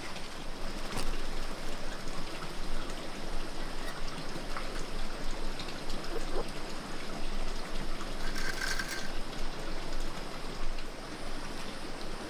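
Steady water noise with scattered small knocks, and one brief brighter sound about eight and a half seconds in.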